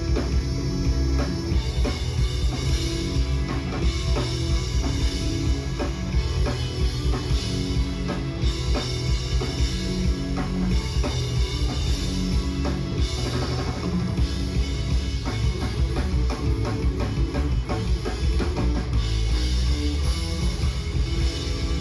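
A live rock band playing an instrumental passage: drum kit keeping a steady beat with electric guitar and bass, heard through the PA.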